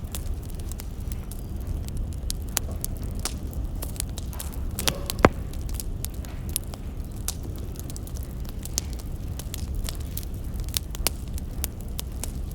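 Wood fire crackling, with many small sharp pops and one louder pop about five seconds in, over a low steady rumble.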